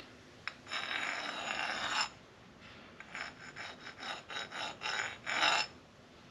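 Hand file rasping along the chamfered edge of a metal base plate to knock off a burr: one long stroke, then a run of short quick strokes.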